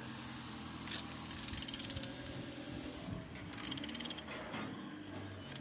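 A ratchet wrench clicks in two quick bursts as it turns the crankshaft of a Hyundai G4EA engine over by hand. The engine turns freely, so it is not seized.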